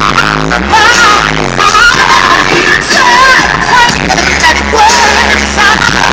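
A song with a sung melody and heavy bass playing loud through a car audio system's subwoofer in a ported box.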